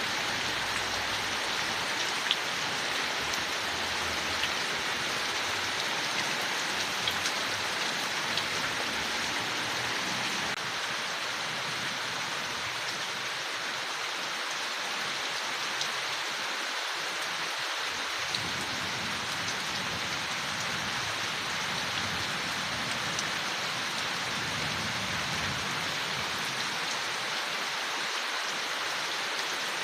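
Steady rain falling on forest leaves, an even wash of noise with scattered individual drop ticks.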